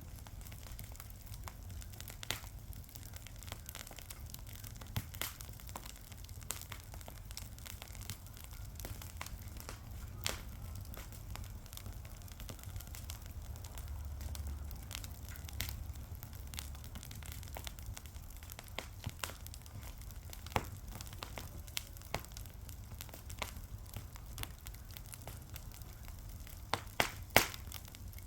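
Fire crackling, with irregular sharp pops and snaps over a steady low rumble, and a quick cluster of louder pops near the end.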